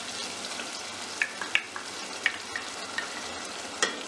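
Masala gravy with oil risen to the top sizzling in a steel pot, a steady hiss, with several sharp pops and clicks from about a second in as yogurt is spooned into the hot pot.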